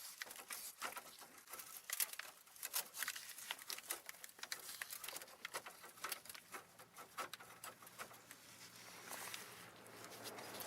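Faint, irregular light clicks and taps of hands handling plastic fuel lines and a zip tie under the car, with a soft hiss building near the end.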